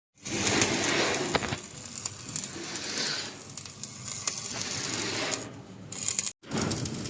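Metal clinking and scraping, with sharp clicks over a noisy background. The sound is broken by two brief dropouts, at the start and about six seconds in.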